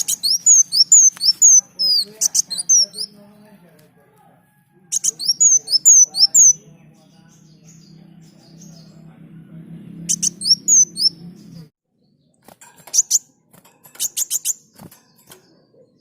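Kolibri daun (a sunbird) singing: quick phrases of high, sharply sweeping chirps in four bursts, with short pauses between. A faint low hum runs underneath and stops about two-thirds of the way through.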